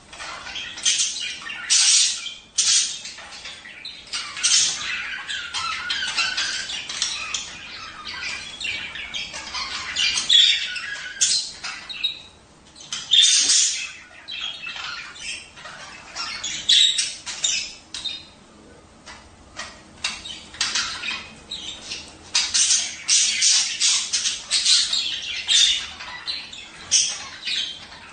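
Budgerigars chattering and squawking: a steady stream of short, high-pitched calls with a couple of brief lulls. This is the warbling chatter of budgies in breeding condition.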